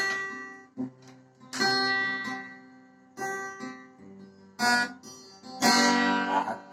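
Acoustic guitar strumming chords, one strum about every second, each ringing out and fading before the next, as a song intro before the singing comes in.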